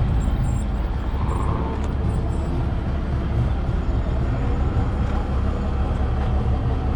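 A car engine running steadily with a low, even rumble.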